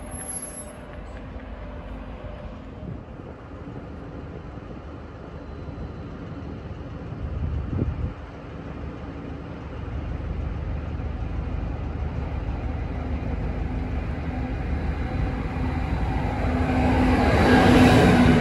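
Freight train hauled by a TX Logistik electric locomotive approaching and running past along the platform. The low rumble of the wheels builds over the second half and is loudest near the end as the locomotive goes by, with a steady electric hum from the locomotive.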